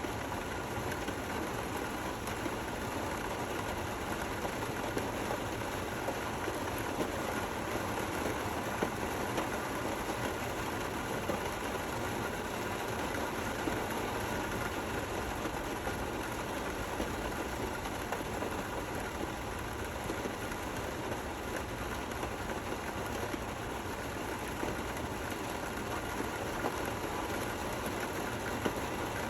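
Steady rain falling, an even hiss with faint irregular patters of individual drops.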